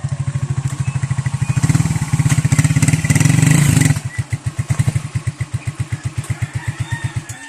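Motorcycle engine running with a rapid, even firing beat, louder for the first four seconds and then quieter, before it stops abruptly near the end.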